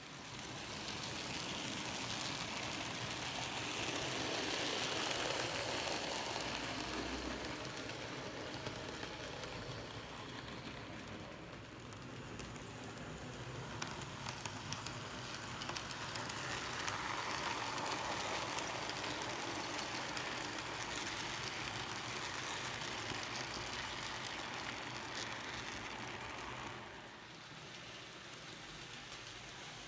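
N gauge model train running on track: a steady rushing whir of the small electric motor and wheels on rail, swelling louder twice as it passes close, with light ticks along the way. The sound drops away sharply near the end.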